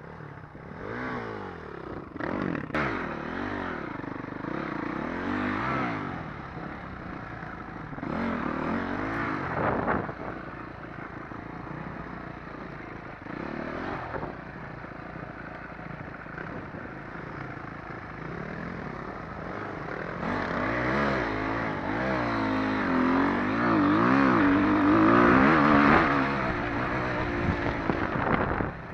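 Dirt bike engine revving up and down as it is ridden over rough ground, with a few knocks and clatter. It runs louder and holds higher revs in the last third.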